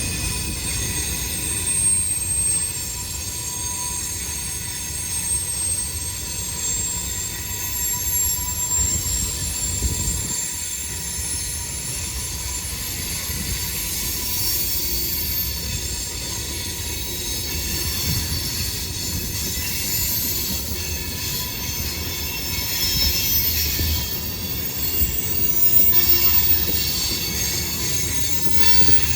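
CSX freight train cars rolling past, with a steady, high-pitched wheel squeal over a low rumble.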